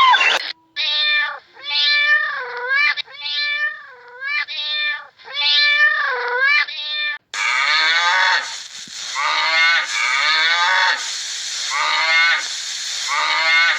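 A cat meowing over and over, about five meows in the first half. Then a cut to a noisier recording with a quick run of shorter calls that fall in pitch.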